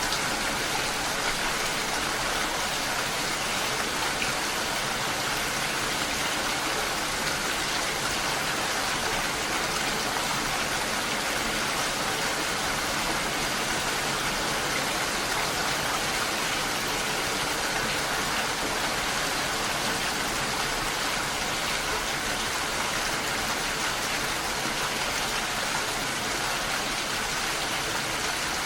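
Steady rain: an even hiss of falling drops, constant in level with no breaks.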